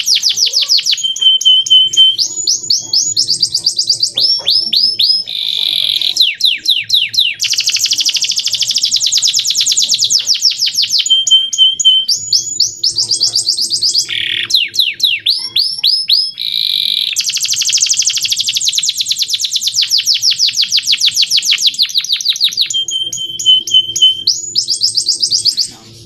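Male domestic canary singing a long, high-pitched song. It moves through fast rolling trills of repeated notes, sweeping chirps and short held whistles, and the same song sequence repeats about every 11 seconds.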